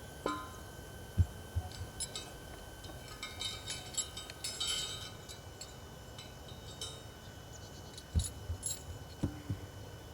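Heavy steel tractor gears clinking and jangling as they are carried, with a few dull thuds about a second in and again near the end.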